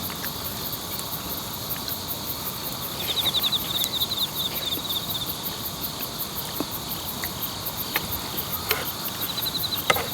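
Insects chirping: short trilling bursts every few seconds over a steady, fast, high ticking. A few light clicks come near the end.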